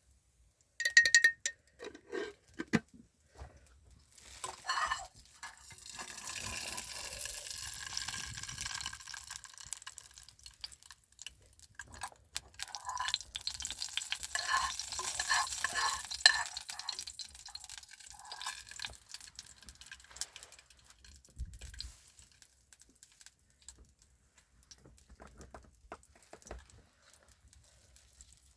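Kitchen work at a pan: sharp clinks and scrapes of a utensil, with two swelling stretches of sizzling hiss, about six seconds in and again in the middle, and scattered faint clicks toward the end.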